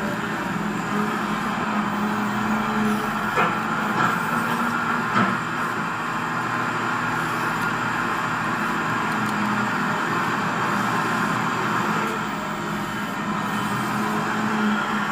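Radio-controlled scale model of a CAT 336D excavator running: a steady hum of small electric motors and hydraulic pump. A few sharp clicks come about three to five seconds in.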